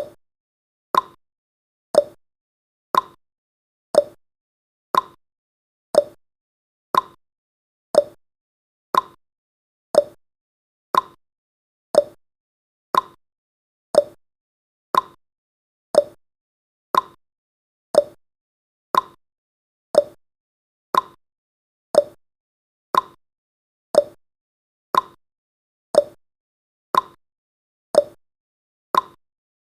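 Clock-tick sound effect of a countdown timer, one short tick every second at a steady pace.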